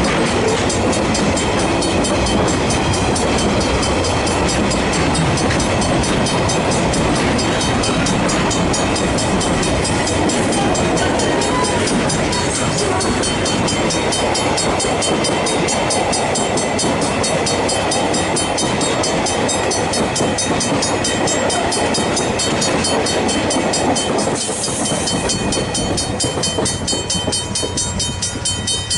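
A train rumbles over the level crossing, its noise falling away near the end. The crossing's Griswold mechanical bells ring in rapid, even strokes over it, heard plainly once the train has gone.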